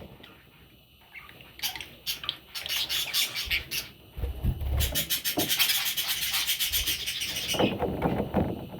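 Baby budgerigars chirping: scattered high chirps, then a fast, continuous run of chirps in the second half that stops near the end.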